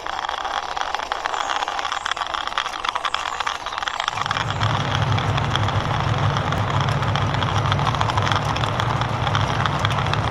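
Plastic toy tanker truck pushed by hand, its wheels rolling with a gritty rattle of many small clicks. About four seconds in, a steady low hum joins.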